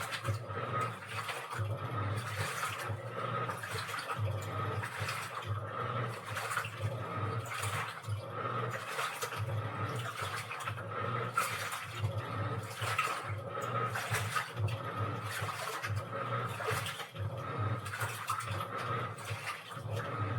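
Washing machine running, with water sloshing in the drum in irregular surges over a steady low motor hum.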